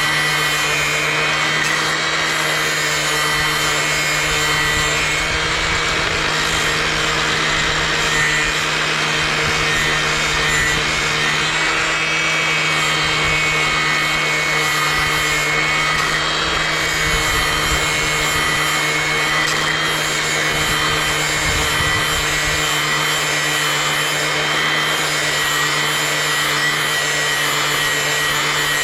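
Angle grinder running steadily with a flap disc grinding the steel cutting edge of a pair of long garden shears, a constant motor whine under the rasp of the disc on the metal.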